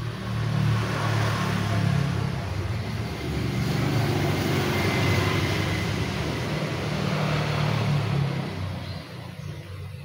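A motor vehicle driving past on a road: a low engine rumble and tyre noise that swell about half a second in, hold for several seconds, and fade near the end.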